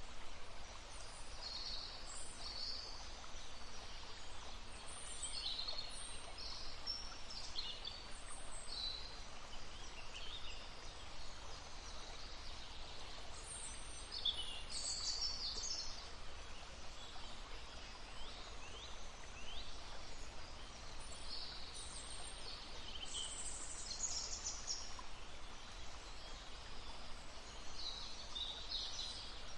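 Several songbirds chirping and singing in short, high calls, scattered throughout, over the steady murmur of a small stream.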